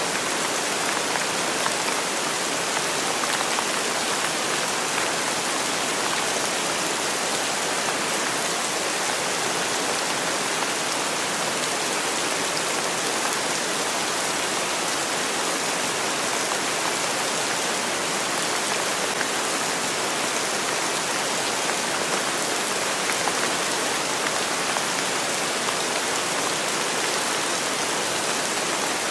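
Steady, even rainfall hissing on surfaces, with no distinct drops, thunder or gusts standing out.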